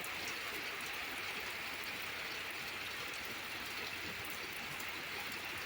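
Light rain falling, a steady hiss with faint scattered drop ticks.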